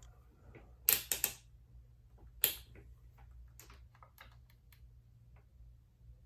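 Sharp clicks and taps of small hard objects being handled: a quick cluster of three loud clicks about a second in, a single loud one a moment later, then a run of lighter ticks.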